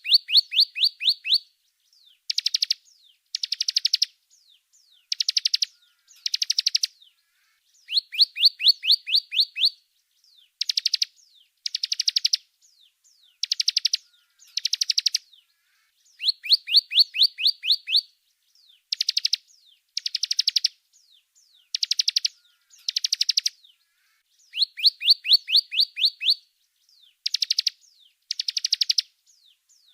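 Small songbird song in short bouts of rapid chirped notes, alternating a run of notes rising in pitch with shorter, denser bursts, the whole sequence repeating about every eight seconds. It is a looped 'masteran' recording, a bird-song track played to train caged songbirds.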